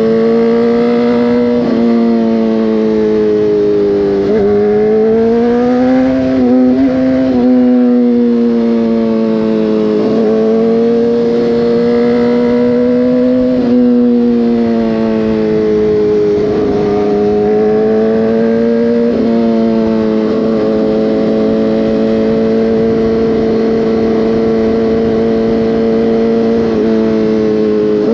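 Motorcycle engine under way on the road, its revs rising and falling slowly with several sudden pitch drops and jumps as the rider shifts gears, over a low rush of wind noise.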